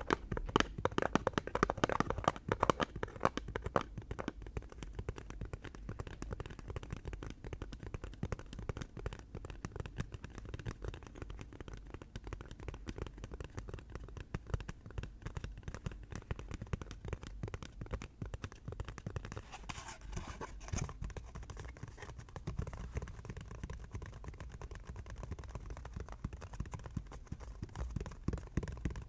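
Rapid close-up tapping on an object, many light taps a second, loudest and busiest in the first few seconds.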